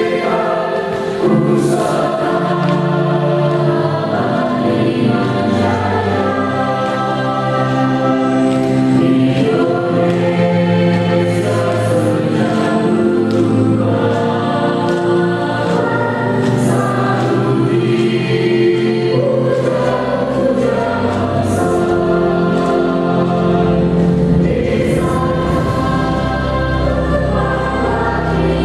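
A choir singing a slow piece with instrumental accompaniment; a deeper bass line enters about two-thirds of the way through.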